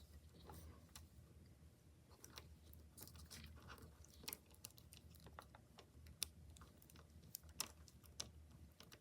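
Faint, scattered clicks and light rustling of plastic pony beads and plastic lacing being handled and straightened by hand, with a few sharper clicks near the middle and end.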